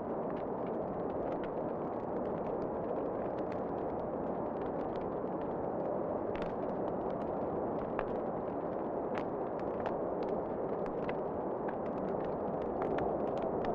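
Wood fire crackling in a fireplace: irregular sharp pops and snaps, a few every second, over a steady low rushing noise.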